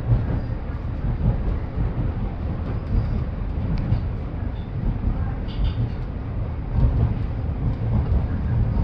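Interior noise of a moving electric commuter train: a steady low rumble of wheels on the rails and running gear heard from inside the passenger car.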